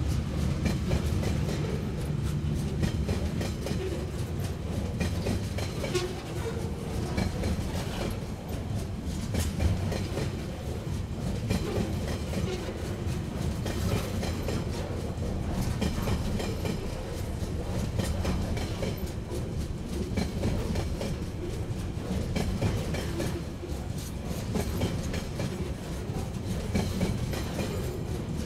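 Freight train's container wagons rolling past close by: a steady low rumble of steel wheels on the rails with frequent clicks and knocks from the wheels running over the track.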